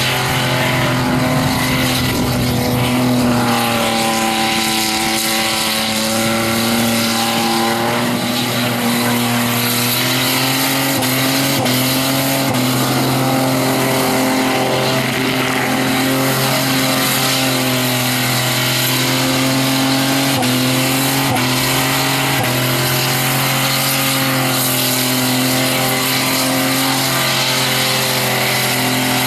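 Holden VN Commodore's 3.8-litre Buick V6 held at high, steady revs through a burnout, its pitch wavering slightly, over the hiss and squeal of the rear tyres spinning against the tarmac.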